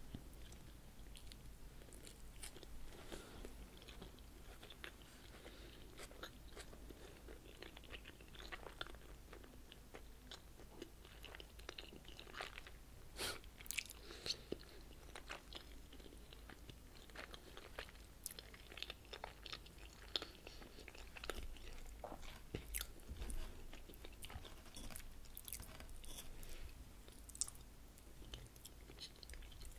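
Close-miked chewing and crunching of a crunchy salad, with many short sharp crunches scattered throughout.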